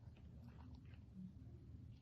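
Near silence: a faint low room hum with a few soft clicks.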